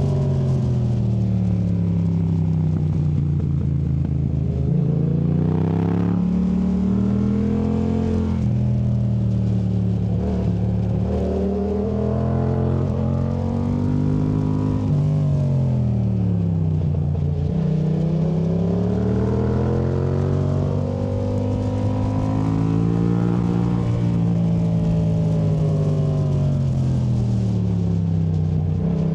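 2019 Yamaha MT-07's parallel-twin engine through a Yoshimura AT2 Race exhaust, heard from on the bike, revving up and falling back again and again in long smooth sweeps as it drives out of and rolls off into tight bends.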